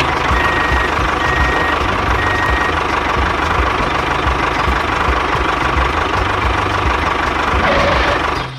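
The DIY mini tractor's small engine runs steadily with a regular low chugging. Three short high beeps sound in the first few seconds, and the engine sound stops abruptly near the end.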